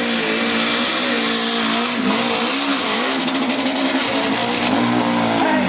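Pulling tractor's engine running flat out under load, holding high, steady revs with a loud rush of noise over it. The revs dip briefly about two seconds in and fall away sharply near the end.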